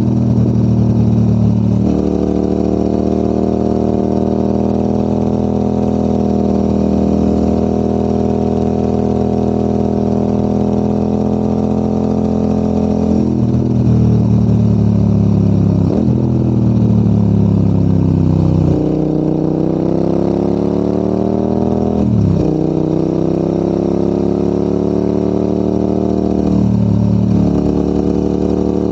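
Adventure motorcycle engine pulling uphill. Its note holds steady for about ten seconds, then changes pitch abruptly several times, rising again after each change, as the bike shifts gears and accelerates.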